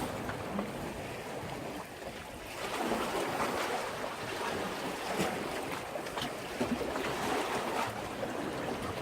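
Sea waves washing against a breakwater: a steady rush of surf that eases off and swells up again about two and a half seconds in.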